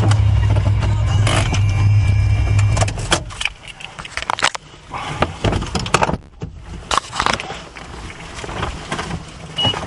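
Car engine and cabin rumble, which cuts off about three seconds in, followed by scattered clicks and knocks.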